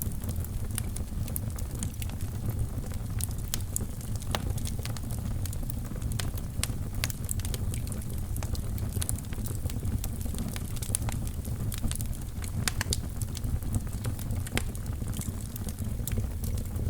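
Fire burning in a fireplace, crackling with many sharp, irregular pops over a steady low rumble of the flames.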